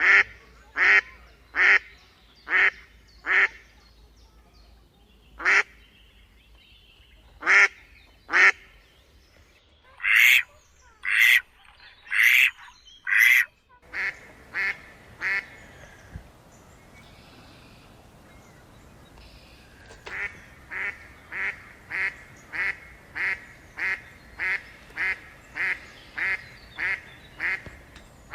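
Ducks quacking in runs of short, loud calls. A few louder, harsher quacks come in the middle, then after a quieter stretch a steady series of about two quacks a second.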